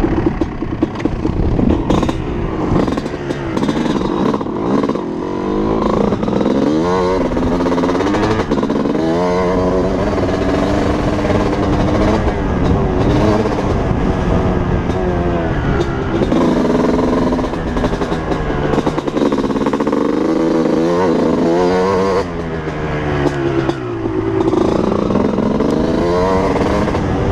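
Honda CR250 single-cylinder two-stroke dirt bike engine revving up and down again and again as it is ridden, its pitch climbing and dropping every second or few.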